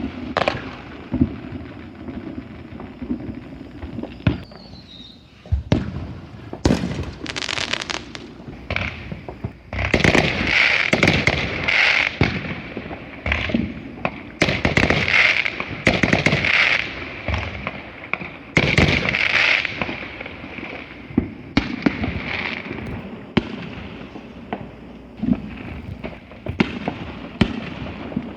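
Consumer fireworks going off: a string of sharp bangs and booms throughout, getting denser about a third of the way in, with stretches of rapid crackling.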